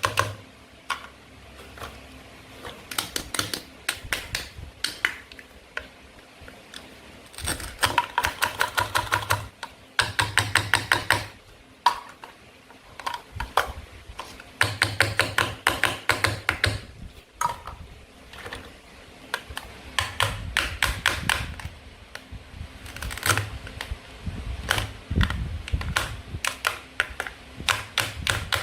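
Rapid clicking and tapping of hard plastic toy pieces, in short bursts of quick clicks with brief pauses between them.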